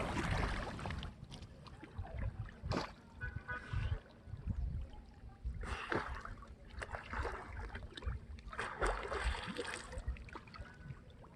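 Water splashing and lapping around a small boat in short irregular splashes, with faint voices in the distance.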